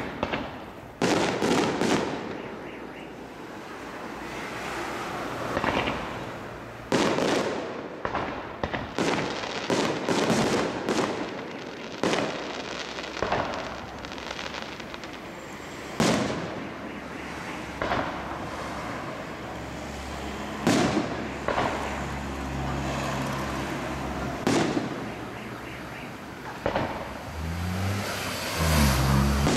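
Aerial fireworks display: shells bursting overhead in a string of loud bangs at irregular intervals, some in quick clusters, each trailing off in a rumbling echo.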